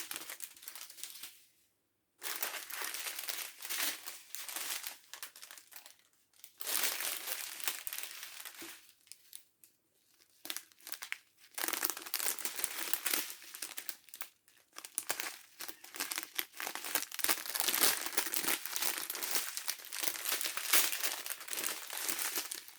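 Crinkly plastic packaging of a diamond painting kit being rustled and handled in bursts, with a couple of brief pauses.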